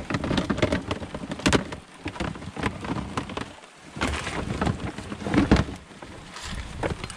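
Rain pattering and spattering on a water-drowned GoPro, heard as a muffled, crackly hiss broken by many irregular sharp clicks and knocks.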